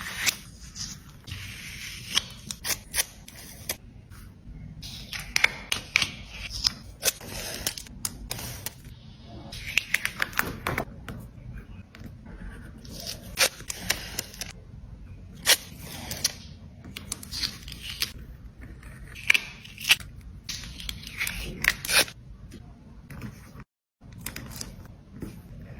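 Close-miked paper-crafting sounds: paper crinkling, being cut with scissors, torn and scraped, broken by many sharp clicks and taps.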